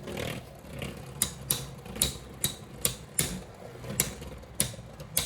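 Sharp, irregular plastic clicks and clacks from Beyblade X tops and parts, about two a second.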